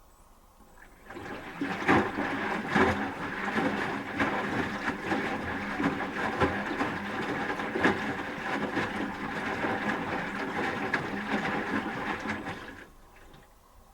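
Asko Quattro W6098X washing machine in its final rinse: the drum turns and the laundry sloshes and splashes in the rinse water. It starts about a second in, runs unevenly and stops sharply near the end as the drum pauses.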